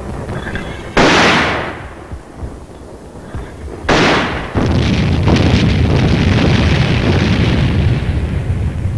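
Two heavy gun blasts about three seconds apart, each starting sharply and dying away; after the second, a loud steady rumble carries on.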